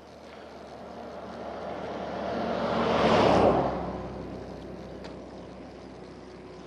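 A vehicle passing close by, its noise swelling to a peak about three seconds in and then fading away, over a steady background of wind and road noise.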